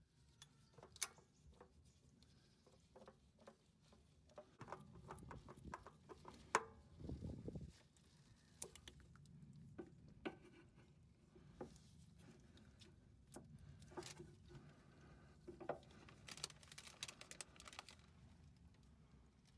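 Faint, irregular clicks and light knocks of tools and parts being handled, busiest around the middle, with a short low scrape about seven seconds in.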